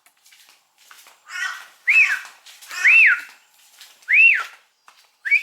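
Clear, high whistled notes: three short notes that each rise and fall, about a second apart, then a longer wavering whistle starting near the end.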